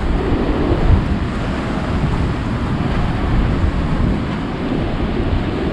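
Wind buffeting the microphone over the steady rush of big surf breaking.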